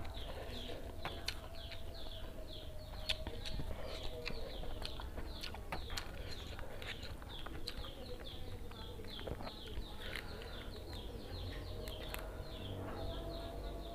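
Close-up chewing, lip smacks and mouth clicks of a person eating noodles and rice by hand, over a steady run of quick, high downward chirps from birds in the background.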